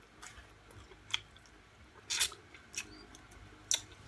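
Close-up chewing with a few separate wet mouth clicks and smacks, the loudest about two seconds in.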